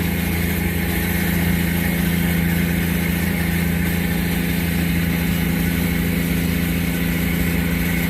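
An engine idling steadily, an unchanging hum with no change in speed.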